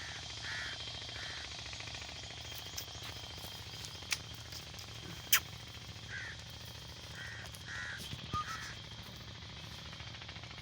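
Short, harsh caw-like bird calls, about seven in scattered groups, over a steady outdoor hiss, with two sharp clicks in the middle.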